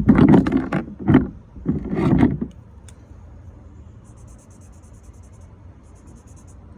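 Drawing on paper: a few loud rubbing, bumping sounds in the first two and a half seconds, then quiet, quick back-and-forth scratching strokes of a drawing tool on paper.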